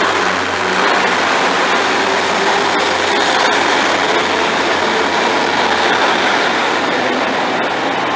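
Class 150 diesel multiple unit pulling out along the platform, close by: the steady rumble of its wheels on the rails and its underfloor diesel engines, loud throughout. A low engine hum fades after about the first second, and a faint high whine comes in partway through.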